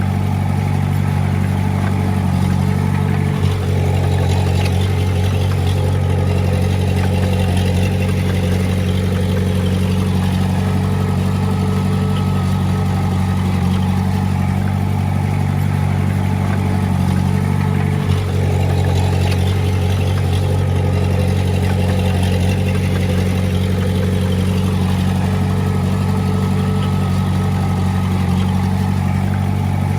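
Diesel engine of heavy earthmoving equipment running steadily under power, with two short knocks, about 3.5 and 18 seconds in.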